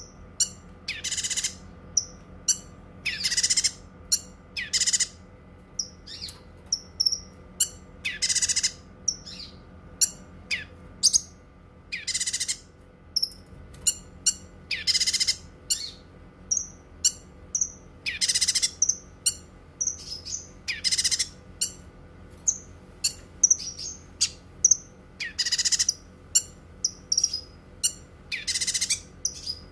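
Cucak kinoi songbird singing: loud, harsh calls about half a second long, repeated every second or two, with short high chirps and trills in between.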